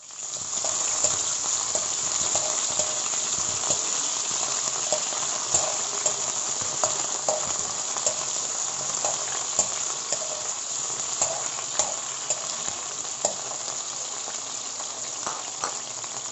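Cubed potatoes frying in hot corn oil in an aluminium wok: a dense sizzle that starts suddenly as the pieces go in, with frequent small pops and crackles, easing slightly toward the end.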